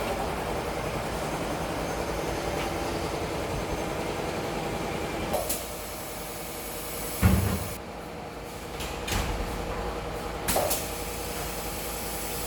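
A double-head aluminium cutting machine running steadily. About five and a half seconds in, the running noise drops after a knock. A heavy thump follows about seven seconds in, and another clunk comes near the end.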